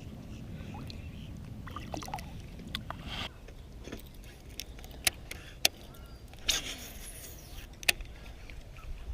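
Wind and water noise around a fishing kayak, a steady low rumble with a few sharp clicks and knocks and a couple of short rustling bursts.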